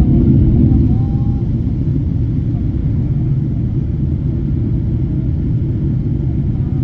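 Steady low rumble of cabin noise in a Boeing 777-300 jet airliner, easing slightly about a second in.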